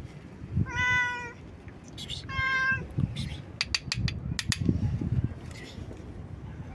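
A stray cat meowing loudly, two drawn-out meows about a second and a half apart. Midway they are followed by a quick run of sharp clicks.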